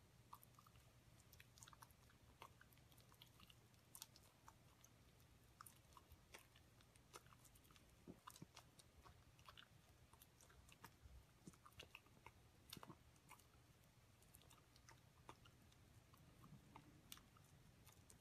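Faint, irregular chewing and mouth clicks of a small dog eating a peeled banana, over a low steady hum.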